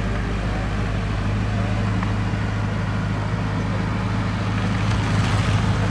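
Diesel engine of heavy earthmoving machinery running steadily, a low hum under a noisy mechanical haze, briefly louder about five seconds in.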